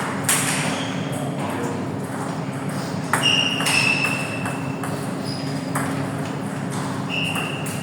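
A few sharp clicks of a table tennis ball striking bat or table, with short high squeaks twice, over a steady hum of the hall.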